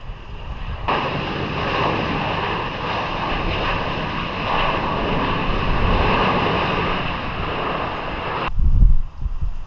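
Jet airliner engines passing close by: a steady rushing noise with high whining tones over it. It starts suddenly about a second in and cuts off sharply near the end, leaving a low wind rumble on the microphone.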